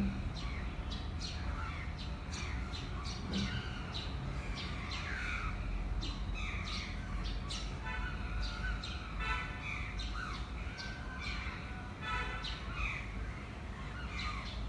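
Several birds chirping and calling in short sweeping notes, with harsh, buzzy squawks about 8 and 12 seconds in, over a steady low rumble.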